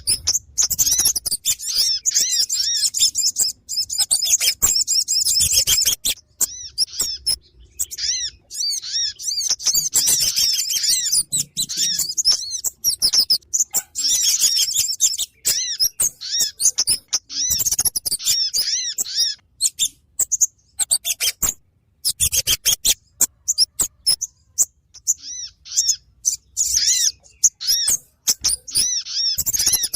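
Bird-lure recording of small birds calling: dense runs of rapid, high, repeated chirps that come in bursts broken by short pauses.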